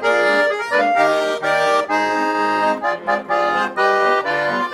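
Garmon (Russian button accordion) playing an instrumental break of a folk song: a lively melody in chords over repeating bass notes.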